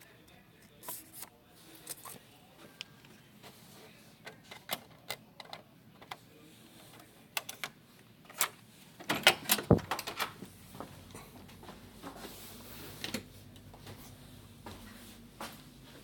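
Scattered light clicks and knocks of a door being handled, then a burst of louder clacks and a thud about nine seconds in, as a motel room door is unlocked and opened.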